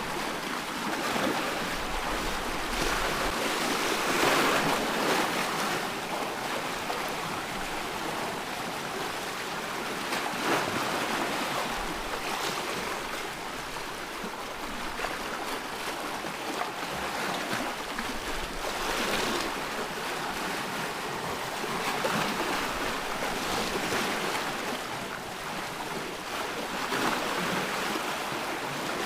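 Ocean waves washing onto a shore, a continuous surf hiss that swells and eases as each wave breaks every several seconds.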